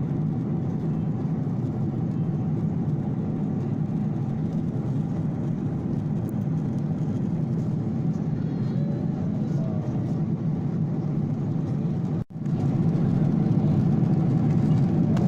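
Steady low rumble of an airliner cabin in flight: engine and air noise heard from inside the plane. It cuts out for an instant about twelve seconds in and comes back slightly louder.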